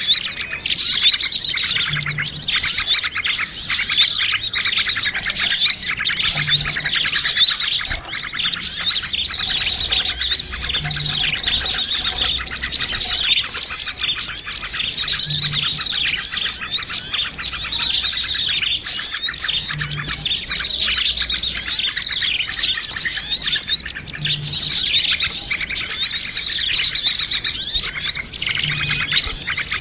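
Dense chorus of many small birds chirping and twittering without a break, a mix of quick overlapping calls and trills: a bird-lure (pikat) recording of noisy small birds.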